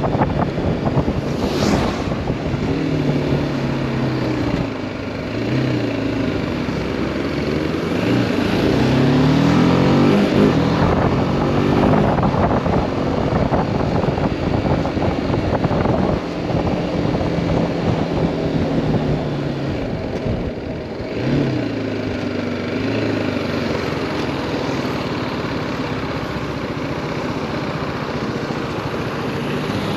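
2018 BMW G310R's single-cylinder engine running under way, its note rising and falling several times as the rider accelerates and eases off, over a steady rush of wind noise on the microphone.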